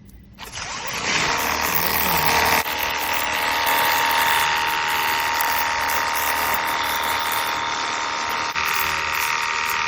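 Ontel Turbo Jet HydroX5 Pro cordless pressure washer starting up about half a second in and running steadily on high power: a small electric pump whining over the hiss of the water jet, its tone shifting slightly a couple of seconds in.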